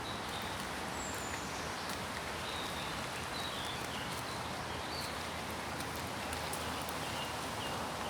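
Steady rain falling through woodland, with scattered drips pattering and a few short, high bird chirps.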